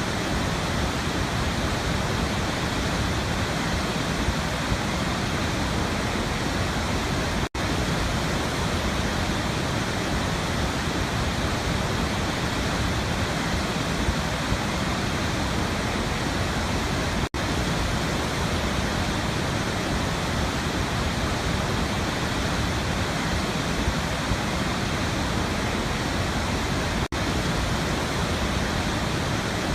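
Steady rush of a waterfall, an even wash of noise, that cuts out for an instant three times, about ten seconds apart.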